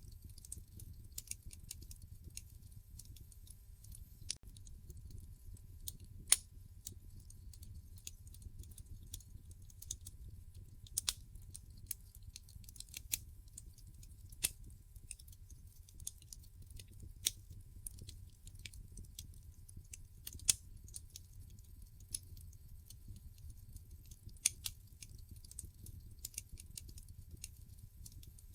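Wood fire in a fireplace crackling: irregular sharp pops and snaps over a steady low rumble of the burning logs, with a few louder pops standing out.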